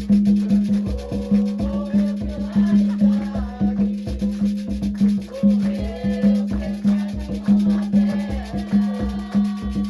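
Festival music for the orixá Xangô: drums struck in a quick, steady rhythm with a shaken rattle, under wavering sung melody lines.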